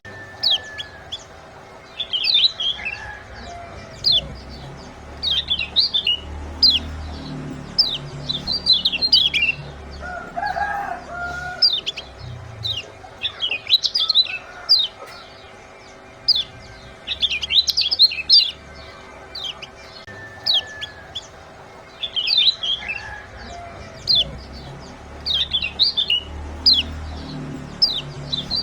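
Lemon-bellied white-eye (kecial kuning) giving sharp, rapid 'ciak' chirps in quick clusters, over and over, a call recording used as a lure to set caged birds singing.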